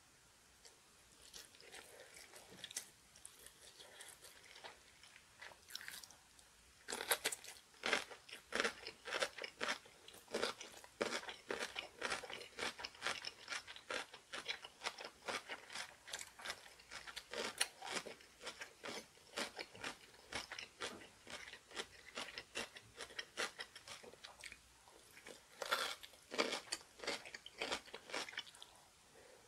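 Close-miked eating: soft chewing at first, then from about seven seconds in, rapid, loud crunching of ponytail-radish kimchi (chonggak kimchi) eaten with rice, with another burst of crunching near the end.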